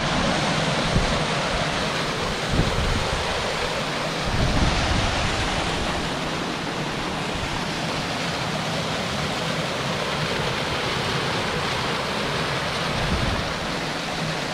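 Waterfall's steady rushing water, with wind buffeting the microphone in low rumbles now and then.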